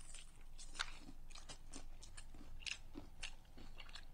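Crispy fried chicken being bitten into and chewed: a run of faint, irregular crunches from the breaded coating.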